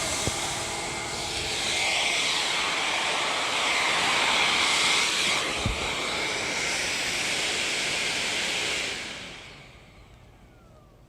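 AlfaBot X6 window-cleaning robot's suction fan running with a steady, loud hissing whine, cutting off about nine seconds in. A short thump about halfway through.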